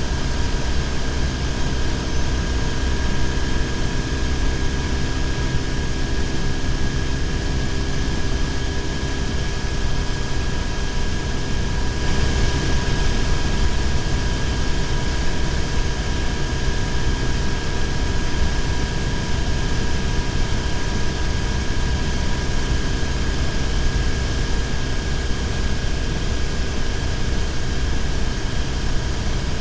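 BMW R1150GS flat-twin engine running steadily at cruising speed, under a steady rush of wind and road noise on the bike-mounted camera. The hiss grows a little brighter about twelve seconds in.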